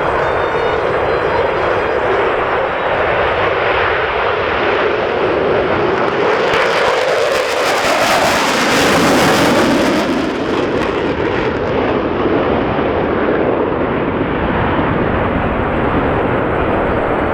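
Jet engine noise from Boeing EA-18G Growlers, twin General Electric F414 turbofans each, loud throughout. It swells to its loudest, with a bright high hiss and a sweep in pitch, as the jets pass close about six to ten seconds in, then eases.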